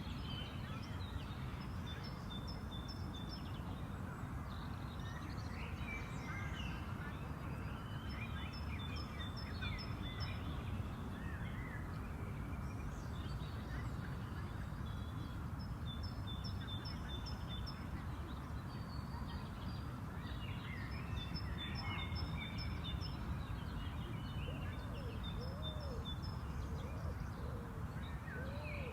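Spring park ambience: several songbirds chirping and singing, with repeated runs of short high notes, over a steady low background rumble.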